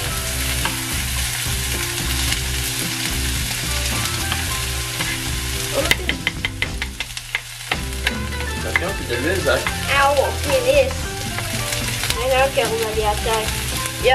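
Chopped onion and garlic sizzling in hot oil in a wok while being stirred and pushed in from a wooden cutting board with a plastic spatula. A quick run of sharp taps comes about six seconds in, and a wavering pitched sound runs in the background through the second half.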